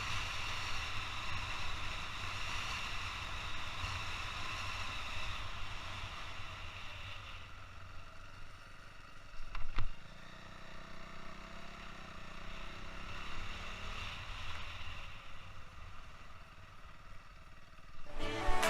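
Motorcycle on the move, heard from a helmet-mounted camera: steady wind rumble over the running engine, with a short louder knock about halfway through.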